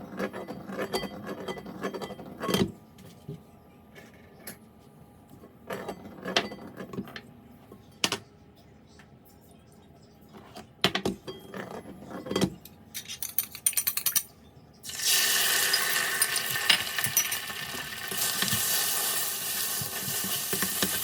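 Scattered clinks and knocks of kitchen utensils and dishes, then, about three-quarters of the way through, a sudden loud sizzle as food hits hot oil in an iron pan and keeps frying. The audio runs at double speed.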